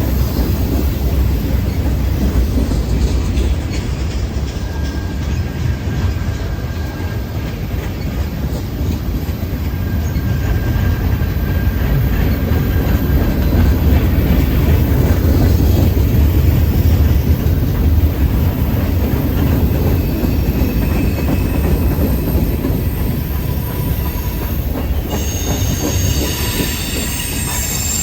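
Freight train rolling past with a steady, heavy low rumble of wheels and cars. High-pitched wheel squeal starts near the end.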